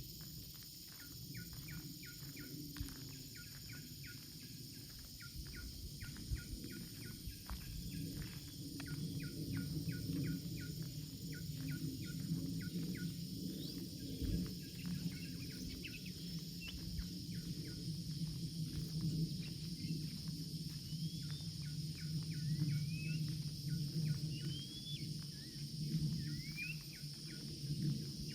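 Outdoor ambience: a bird gives short rising whistled calls, repeated every second or two through the second half, over a steady low hum. Light ticks run all through at about two or three a second.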